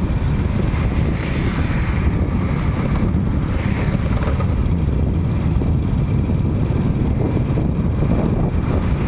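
Wind buffeting the microphone: a steady, loud low rumble with a faint hiss of background noise above it.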